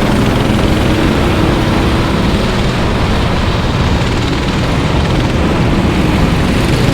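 Racing kart engines running on the track, a steady loud drone.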